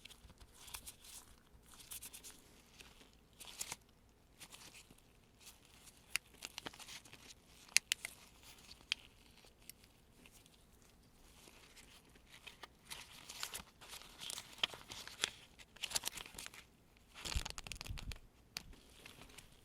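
US one-dollar bills crinkling and snapping as gloved hands count them from hand to hand, in irregular crisp rustles with a sharper snap about eight seconds in. A brief dull low bump of handling comes near the end.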